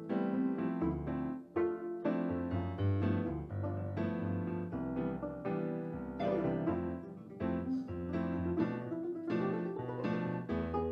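Piano music in a live ensemble performance that blends Western and Korean traditional instruments: a steady run of struck notes and chords over held low bass notes.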